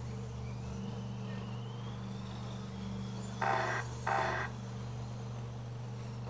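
Two short electronic beeps, about half a second each and close together, over a steady electrical hum, with a faint rising whine in the first couple of seconds.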